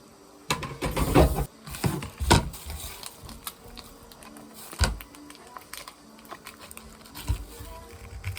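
Kitchen handling sounds while cooking: a quick cluster of knocks and clatter in the first couple of seconds, then a few separate sharp knocks.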